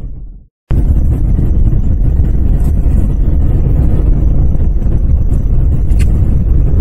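A car driving on a snow-covered highway, recorded on a phone: a loud, steady low rumble of tyres and engine. The sound fades and drops out for a moment shortly after the start, then comes back abruptly.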